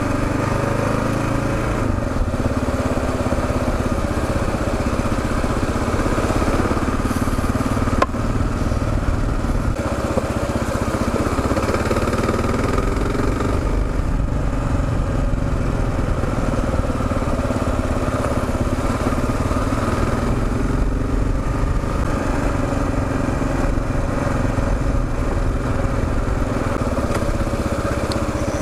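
Kawasaki KLR 650's single-cylinder engine running steadily as the motorcycle is ridden along a gravel forest road, with one sharp knock about eight seconds in.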